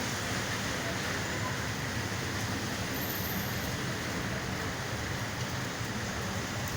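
Steady, even rush of a lot of water.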